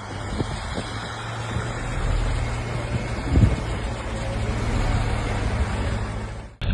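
A motor vehicle running steadily with road noise and a constant low engine hum, swelling louder for a moment about three and a half seconds in; the sound cuts off abruptly near the end.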